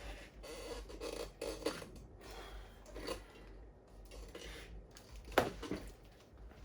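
Hands taking a laptop apart: scattered small scrapes, rubs and clicks of plastic and metal parts, with one sharper click about five seconds in.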